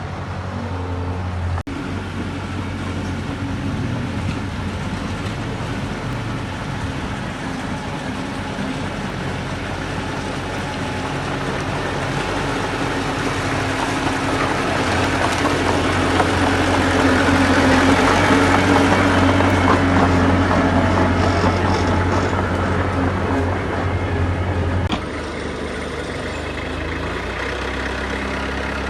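Diesel engines of heavy earthmoving machinery running steadily. The sound swells louder past the middle and drops off abruptly near the end.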